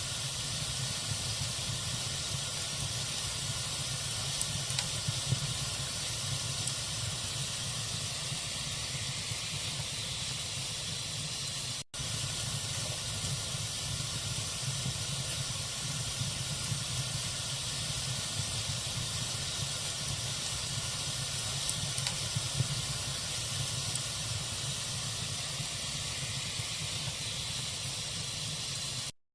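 Log fire burning with a steady hiss and a few faint crackles. The sound drops out for an instant near the middle and cuts off just before the end.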